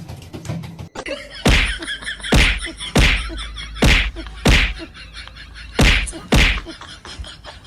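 A run of seven sharp whacks or slaps at an uneven pace, mostly about half a second to a second apart.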